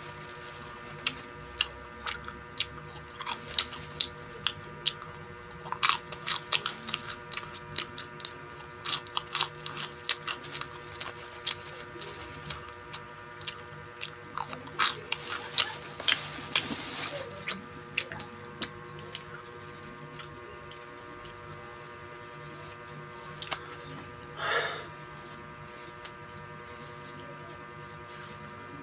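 Close-up eating sounds: a dense run of sharp chewing and crunching clicks for about the first eighteen seconds, then fewer, over a steady background hum. About twenty-four seconds in there is one short, louder noise.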